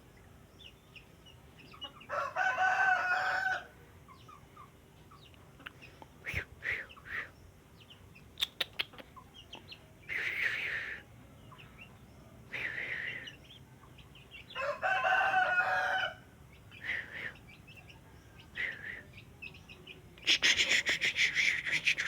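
A rooster crows twice, about two seconds in and again about fifteen seconds in; these are the loudest sounds. Between the crows come short scattered bird chirps and calls, and near the end a rapid burst of rattling calls.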